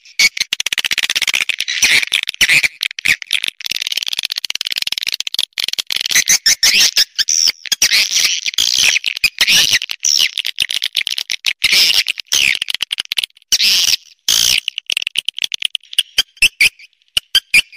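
Swiftlet lure call: dense, high twittering chirps over rapid trains of sharp clicks, with a brief break about three-quarters of the way through.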